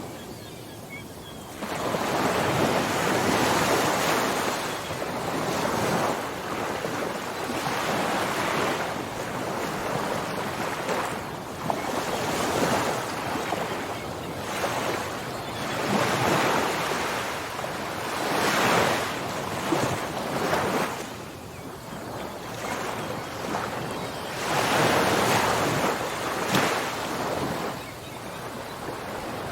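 Ocean waves breaking and washing on a shore, the surf rising and falling every few seconds, with some wind on the microphone.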